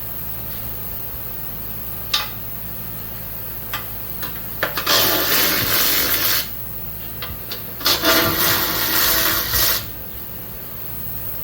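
Hands-on work on a scooter: a few sharp clicks and knocks, then two rough scraping, rattling bursts of about one and a half and two seconds each.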